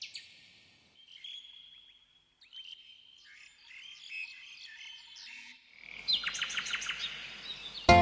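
Small birds chirping: a run of short, high chirps, tweets and trills. Near the end, music starts faintly.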